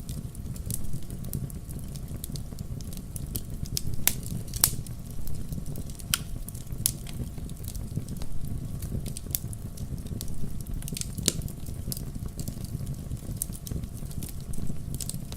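Fireplace fire crackling, with irregular sharp pops over a steady low rumble of the flames; the loudest pops come about four seconds in, just after, and again past eleven seconds.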